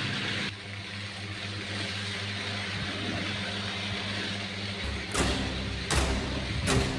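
A small battery toy car motor hums steadily. About five seconds in, music with a regular beat begins, about one beat every three quarters of a second.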